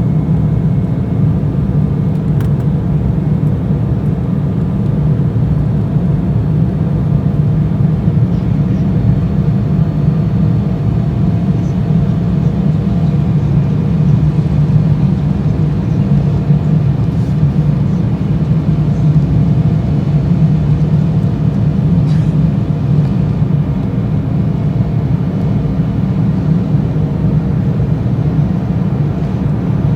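Airliner engines at takeoff power, heard from inside the cabin as a loud, steady low rumble with a faint whine that does not change.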